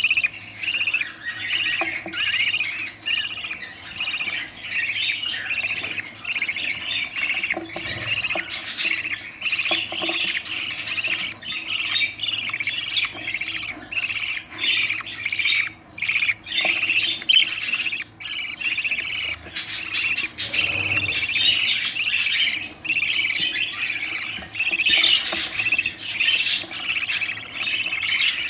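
Budgerigars calling nonstop: a dense stream of rapid, raspy squawks and chirps, typical of budgie chicks begging while they are fed.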